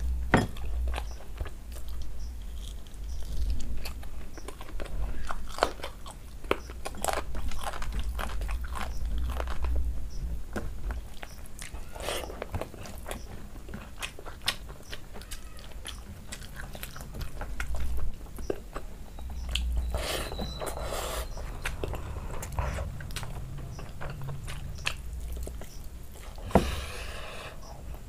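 Close-up chewing and wet mouth smacks of someone eating rice and chicken curry by hand: a long run of irregular clicks and smacks over a low steady hum.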